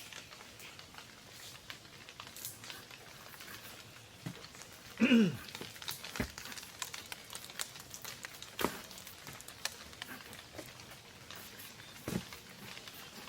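Rain pattering and dripping on a tarp while a campfire crackles, with scattered sharp clicks and pops. About five seconds in comes one short vocal sound that falls in pitch.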